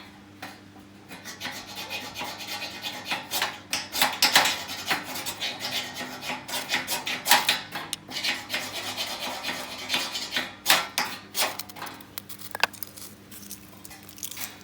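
Fire starter's scraper struck again and again down a ferrocerium rod, a rapid run of short, sharp rasping scrapes to throw sparks into hemp-twine tinder.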